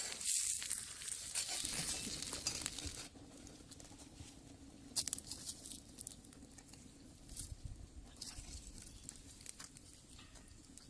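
Food sizzling in a skillet over a wood fire, cutting off abruptly about three seconds in. After that come faint scattered crackles and clicks.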